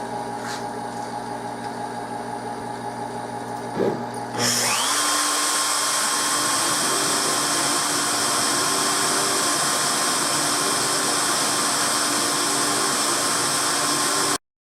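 A CNC router's spindle motor spins up with a rising whine about four seconds in, then runs at a steady loud whir before cutting off abruptly near the end. Before it starts, a quieter steady machine hum with several steady tones is heard.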